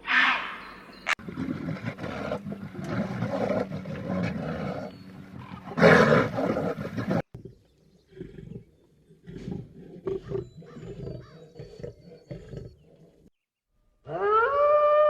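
A big cat roaring and growling in rough, throaty calls, the loudest about six seconds in, then quieter grunting after an abrupt cut. Near the end a long, clear howl begins.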